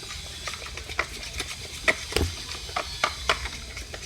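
Spoon stirring glue and boric acid water into slime in a pot: irregular sticky clicks and squelches, several a second, as the mixture thickens toward setting.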